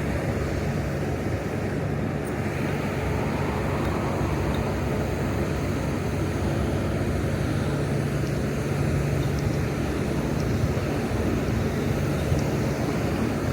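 Steady low drone of city traffic and engines, with a constant low hum that does not change.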